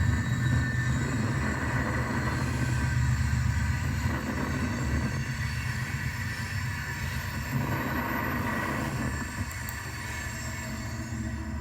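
HO scale model of a BNSF GP35 diesel locomotive running along the track: a steady low rumble from the wheels and motor with a thin steady whine above it, growing gradually quieter.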